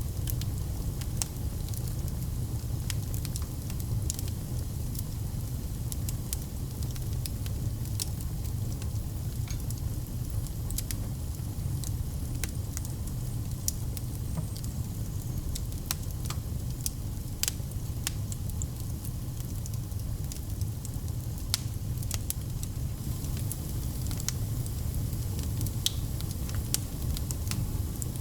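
Wood fire burning in a fireplace: a low, steady rumble of the flames with frequent irregular sharp crackles and pops.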